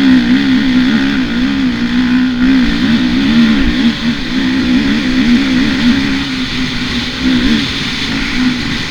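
Motocross bike engine running at high revs, its pitch wavering up and down again and again as the throttle is worked.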